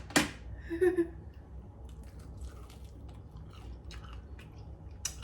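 A person biting into and chewing a sauce-coated chicken wing, with faint wet mouth clicks and smacks. A sharp click comes right at the start, and a brief low hum about a second in.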